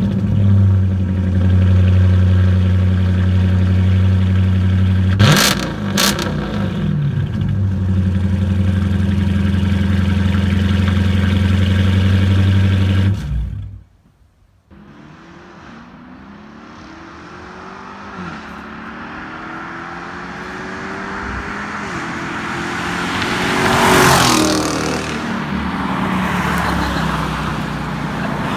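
Straight-piped Dodge Charger R/T V8 idling with a steady low note and a brief rev about five seconds in. Halfway through the sound cuts off. Then the car is heard driving up, its exhaust note climbing and growing louder, and passing close by about two thirds of the way through.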